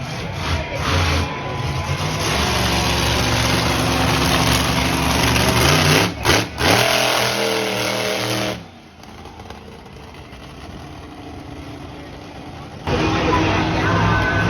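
Monster truck engine running hard and revving, its pitch rising and falling sharply partway through. For about four seconds in the middle it is much quieter, then it comes back loud near the end.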